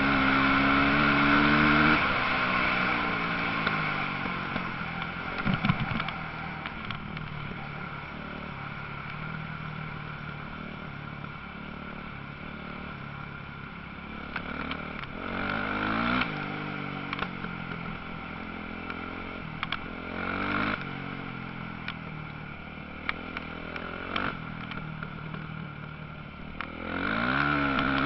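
Motocross motorcycles racing past, their engines revving and falling away as they go by. The loudest passes come at the start, about halfway through, and near the end, with scattered sharp clicks in between.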